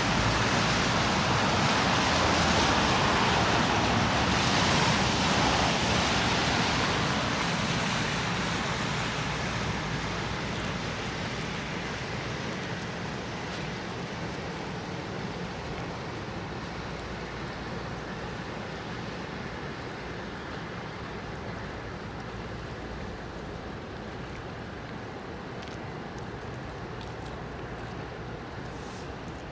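Traffic on a slushy, snow-covered road: a steady rushing hiss of tyres, loudest for the first several seconds and then slowly fading to a lower steady level.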